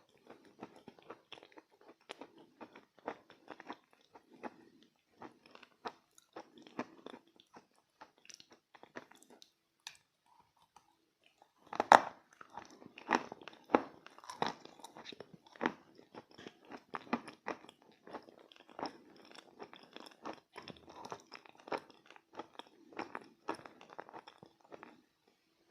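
Close-up chewing and biting of chalk coated in clay paste: dense crackly crunching, a short pause about ten seconds in, then a sharp loud bite at about twelve seconds followed by more crunchy chewing.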